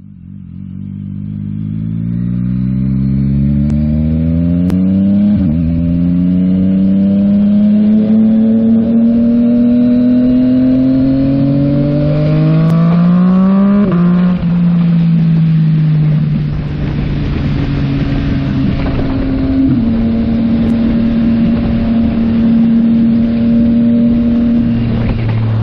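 2022 Yamaha MT-09 SP's 890 cc inline-three running through a Yoshimura AT2 full exhaust, accelerating with the pitch rising through the gears, with upshifts about 5 and 14 seconds in. It then settles into a steady cruise.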